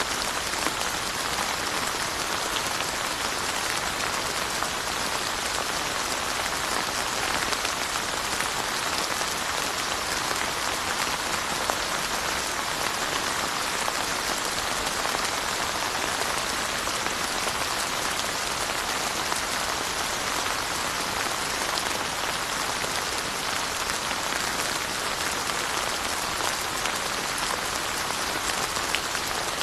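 Steady rain falling, a continuous even hiss of many drops with scattered individual drop ticks.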